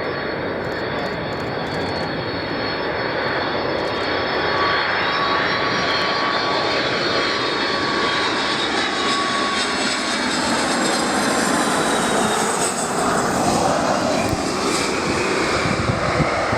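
Boeing KC-135 Stratotanker's four turbofan jet engines on landing: a steady jet rumble that grows gradually louder, with a high engine whine above it.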